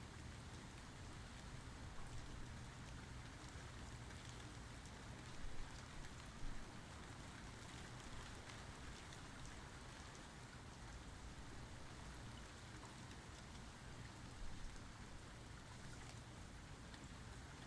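Steady rain falling, with a few brief louder spatters scattered through it.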